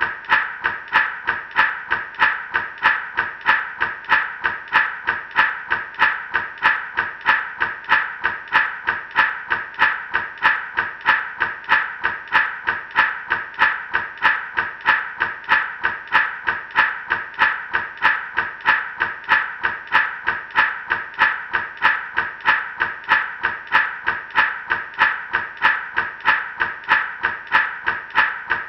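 Gourd rattle shaken in a steady, even rhythm, about three shakes a second, each a short burst of seeds rattling against the dry shell.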